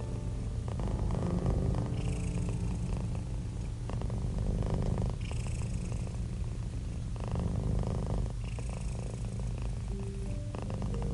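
Domestic cat purring close up: a steady low rumble that swells with each breath, about every three seconds.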